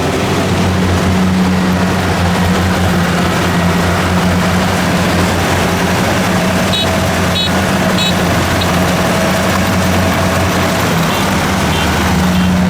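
Kubota DC70 combine harvester's diesel engine running steadily under load, with the constant din of its machinery.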